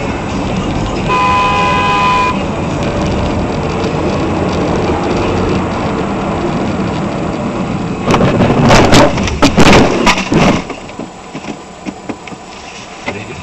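A car horn honks for about a second over steady road and engine noise. About eight seconds in comes a loud two-second cluster of bangs and crunching, a vehicle collision.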